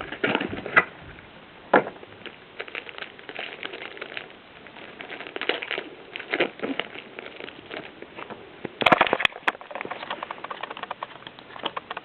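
Hands handling a trading-card booster pack and its cards: a run of crinkly crackles and small clicks from the foil wrapper and cards, with a louder burst of rustling about nine seconds in.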